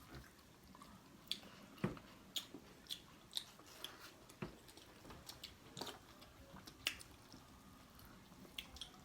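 Close-miked eating of a seafood boil: chewing and biting with irregular sharp clicks and smacks, the loudest about two seconds in and again near seven seconds.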